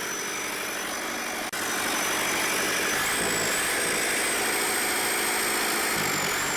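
Lister Petter multi-cylinder diesel engine of a generator set running steadily, its loose injection line now tightened so the injector holds pressure; it sounds much better. A brief dropout about one and a half seconds in, and a thin high whine above the engine from about halfway through.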